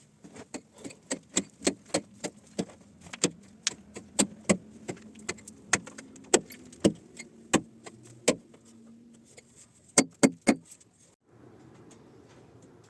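Repeated sharp knocks of hand-tool work, about two or three a second and uneven in strength, with a quick cluster of the loudest near the end. They stop suddenly, leaving a steady low background hum.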